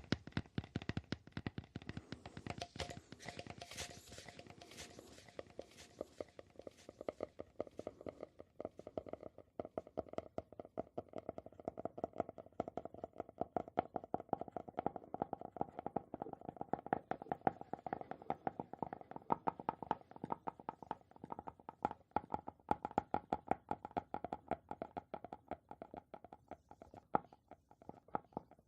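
Rapid, continuous tapping on objects, many small taps a second. About a third of the way in, the taps take on a hollow, ringing tone.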